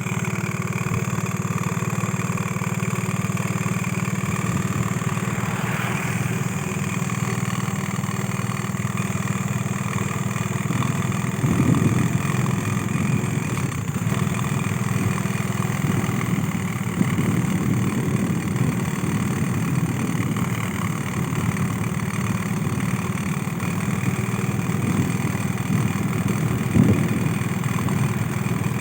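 An engine running steadily with an even, unchanging drone, with a couple of small knocks or bumps partway through.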